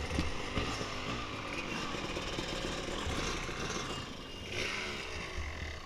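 Dirt bike engine running steadily under low rumble from wind on the microphone.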